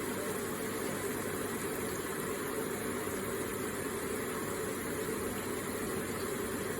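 Electric water feature with water running and splashing steadily, a gentle even wash of sound.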